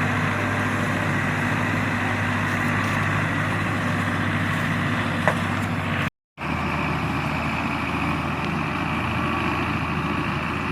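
Belarus 510 tractor's diesel engine running steadily, with one sharp click about five seconds in. The sound cuts out completely for a moment about six seconds in, then the engine carries on as before.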